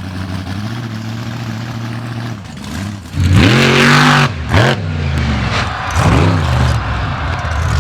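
Monster truck engine running steadily, then revved hard from about three seconds in, its pitch swooping up and back down three times.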